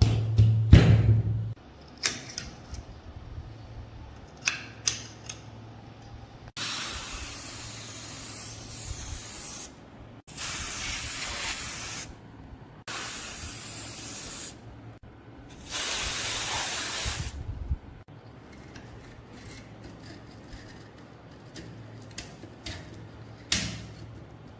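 Four bursts of spray hissing, each lasting one to three seconds, with short pauses between them. A loud thud with a low hum comes at the very start, and scattered clicks and knocks of metal parts being handled are heard between the bursts.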